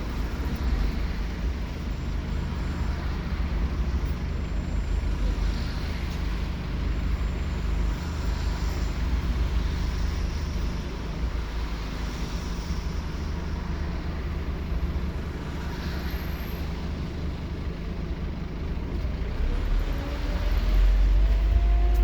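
The engine of a Scania K230UB Omnilink bus running steadily as heard from inside, with a deep hum and road rumble. Near the end its note rises and grows louder as the bus accelerates.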